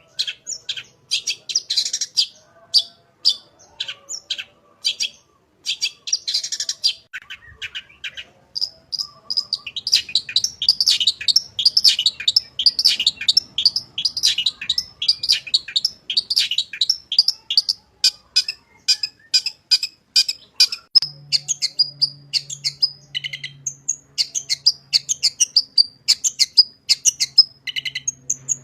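Long-tailed shrike (cendet) singing in full voice: a fast string of sharp, high chirps and mimicked notes, pausing briefly about eight seconds in, then running almost without a break. A faint low hum comes in about two-thirds of the way through.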